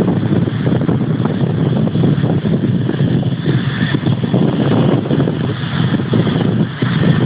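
Interjet airliner's jet engines with a steady, loud roar, mixed with wind buffeting the microphone.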